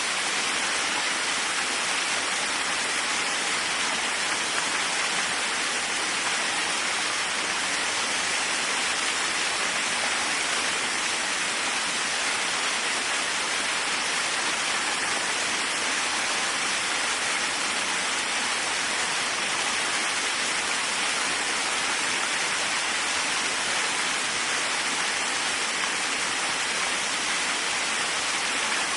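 Waterfall: a steady, unbroken rush of falling, splashing water, hissy, with little low rumble.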